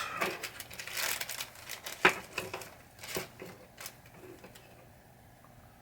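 Small parts being handled: rustling and crinkling with a few sharp clicks, the sound of plastic drop targets and their sticker sheets being picked up and set down.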